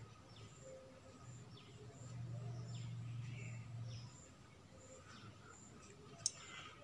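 Faint background with a bird chirping over and over, short falling calls about once a second. A low hum swells for about two seconds in the middle, and a single sharp click comes near the end.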